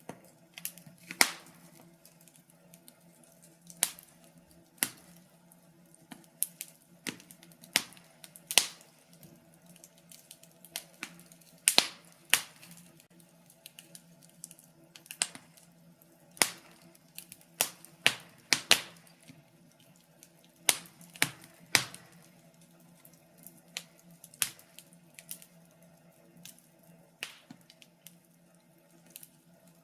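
Wood fire crackling: irregular sharp pops and snaps at uneven intervals, a few of them much louder than the rest, over a faint steady low hum.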